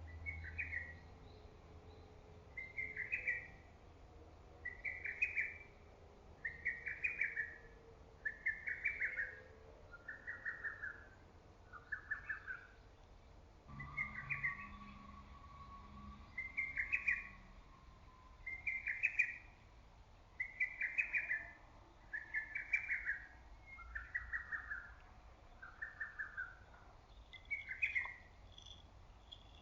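Lesser cuckoo singing its loud, repeated song phrase, a quick run of sharp whistled notes, about once every two seconds, around fifteen times in a row.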